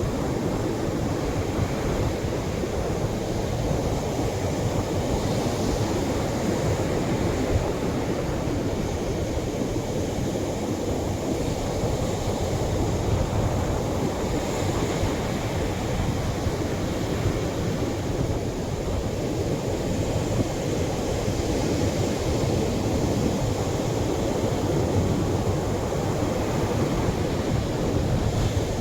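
Heavier Atlantic surf breaking on a sandy shore: a steady, low rush of water with only faint slow swells and no distinct single breakers.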